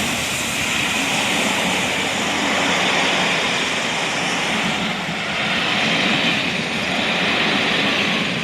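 A train running with a steady rushing rumble and no clear beats or breaks.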